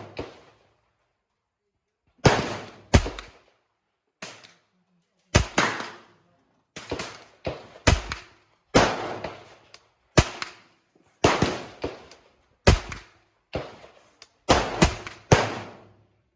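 Gunshots in irregular succession, about eighteen of them, some much louder than others, each with a short echoing tail. These are small-calibre guns firing on a shooting range.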